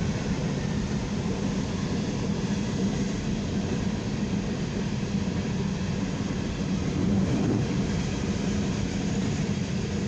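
CSX coal hopper cars rolling past at track speed: a steady rumble of steel wheels on rail with no breaks in it.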